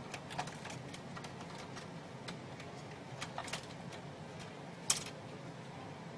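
Scattered small clicks and taps at irregular times over a low steady hum, with one sharper click about five seconds in, like printer parts being handled.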